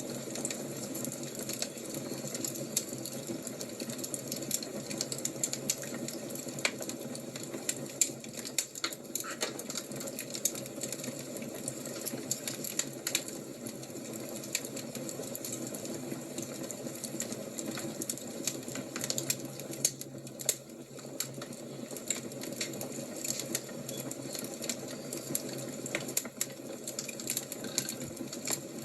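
Fire crackling: a steady low hiss with frequent small pops and clicks.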